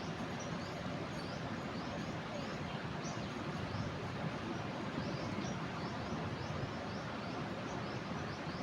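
Steady rush of a flooding river, with short high chirps of small birds repeating over it.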